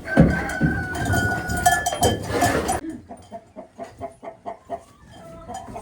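Domestic hens clucking, with a drawn-out call partway in. Loud scraping and rustling runs under them and stops about three seconds in, leaving softer, quick repeated clucks.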